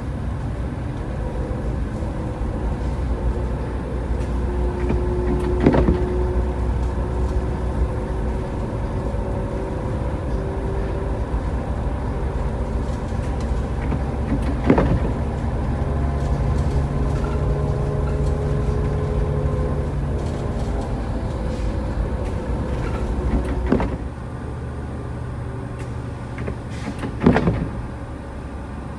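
A car driving, with steady road and engine rumble. Four sharp clicks or knocks are spaced through it, and the rumble gets quieter about three quarters of the way in.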